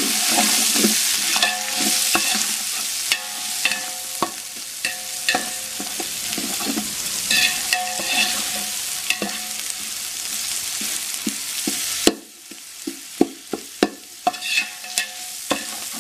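Chopped tomatoes and vegetables sizzling in oil in a large aluminium pot while a steel slotted spoon stirs, scraping and clinking against the metal. About twelve seconds in, the sizzle drops away, leaving sharper separate clinks of the spoon on the pot.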